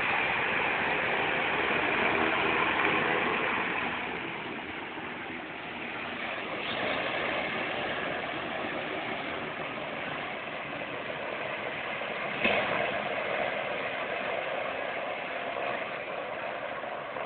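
Hovercraft engines and propellers running steadily: a continuous mechanical drone with a faint whine, easing off slightly about four seconds in and then coming back up.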